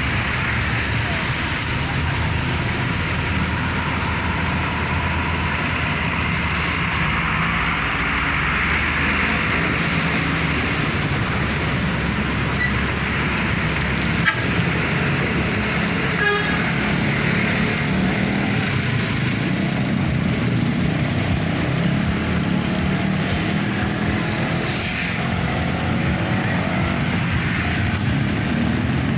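Busy road traffic: the engines of passing trucks, buses and cars running steadily, with a single sharp knock about fourteen seconds in.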